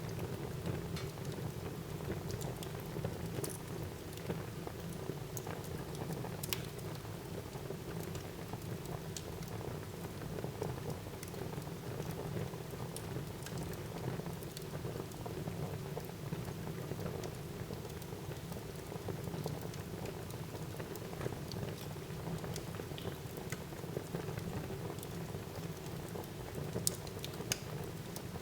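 Wood fire burning in a fireplace: a steady low rush of flames with scattered sharp crackles and pops from the burning logs, a few louder snaps near the end.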